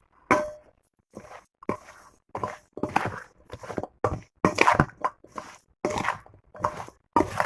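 Cut tender mango pieces being mixed with salt, spice powders and oil in a bowl: a steady run of short knocking and scraping strokes, roughly two a second.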